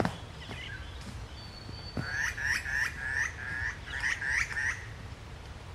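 A woodland bird calling a quick run of about nine repeated notes, about three a second, starting about two seconds in. Low thuds at the start and just before the calls, from a kangaroo thumping the ground.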